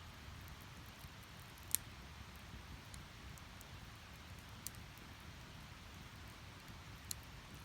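Split firewood crackling as it burns in a fire pit: a few sharp, isolated pops, the loudest about two seconds in and two smaller ones later, with faint ticks between, over a low steady rumble.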